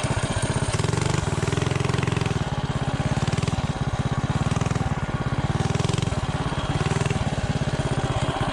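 Predator 212 Ghost single-cylinder engine with a stage-2 build (billet flywheel, Fire 265 cam) idling steadily on a mini bike, firing in a rapid, even pulse.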